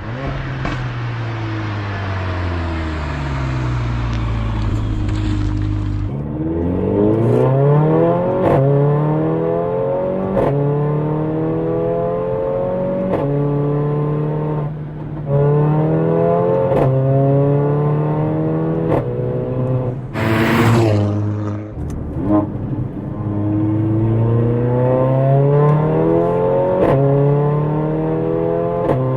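Mercedes-AMG A45's 2.0-litre turbocharged four-cylinder engine winding down, then accelerating through the gears: the note climbs and drops sharply at each upshift, with a short crack at the shifts. A brief loud rush of noise comes about two-thirds of the way through.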